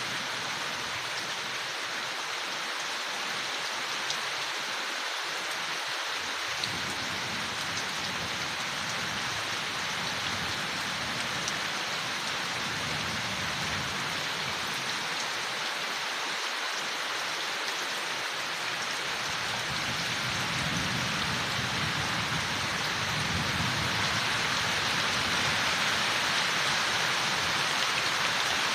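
Steady rain falling on forest leaves, an even hiss with a few distinct drop ticks, growing a little louder and fuller in the second half.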